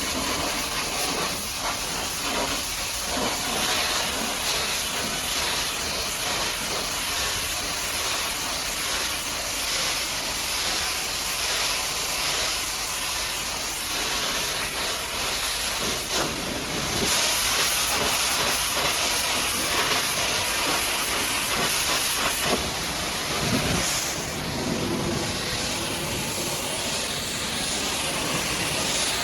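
High-pressure water jet spraying mud off a truck: a steady, loud hiss that grows somewhat louder about two-thirds of the way through.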